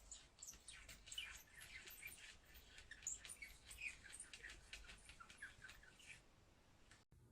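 Faint twittering of small birds: many short, high chirps, some dipping in pitch, that stop about six seconds in.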